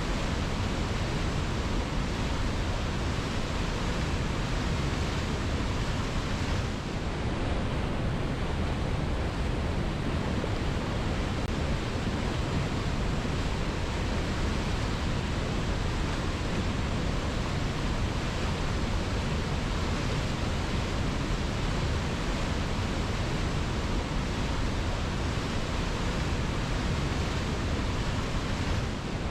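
Waterfall running: a steady, even rush of falling water, turning slightly duller about seven seconds in.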